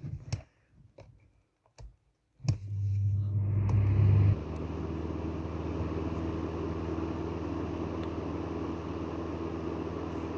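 A few clicks of handling and switches, then an upright electric fan heater switching on with a click: its fan motor starts with a loud low hum for about two seconds, then settles into a steady whir of blown air over a low motor hum.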